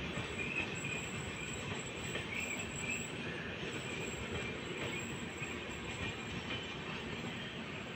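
Rajdhani Express passenger coaches rolling past on the rails: a steady rumble of wheels on track, with a thin high squeal of wheels on the rails over it.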